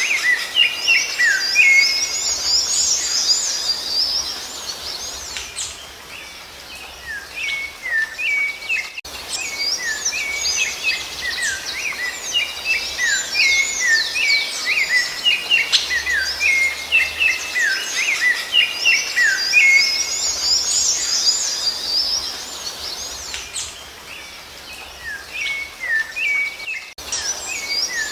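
Rufous-bellied thrush (sabiá-laranjeira) singing: long bouts of rapid, varied whistled notes that glide up and down, easing off briefly about a quarter of the way in and again near the end.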